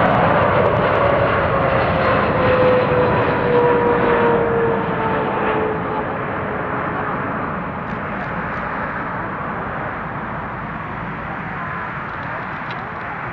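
Jet airliner's engines going past: a loud rush with a whine that falls steadily in pitch over the first several seconds, the noise slowly fading as it recedes.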